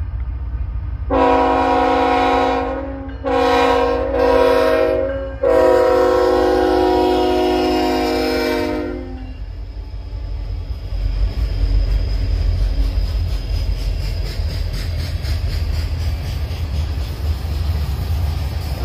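Freight locomotive air horn, from the lead Union Pacific GE C45AH-T4, blowing three blasts, the third the longest. Then the low rumble of the diesel locomotives going by, followed by freight cars rolling past with wheels clacking over rail joints.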